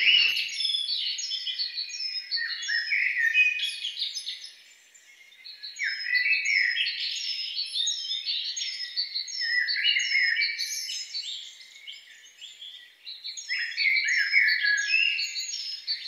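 Birds chirping and singing: many short, quick, high chirps in overlapping phrases, with brief lulls about five and thirteen seconds in.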